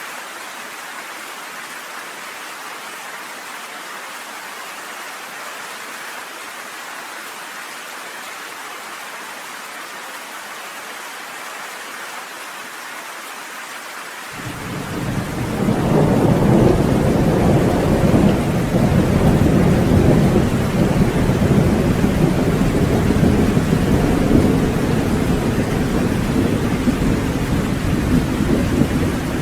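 Steady rain hissing down. About halfway through, a long rolling rumble of thunder swells up over a couple of seconds and keeps rumbling loudly under the rain.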